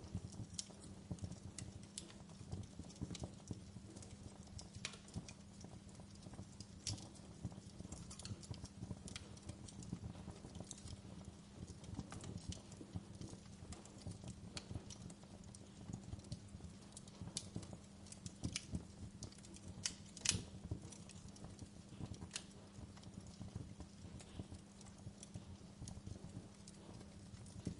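Wood fire crackling, with irregular sharp pops and snaps over a low steady rumble and hum; one louder pop about two-thirds of the way in.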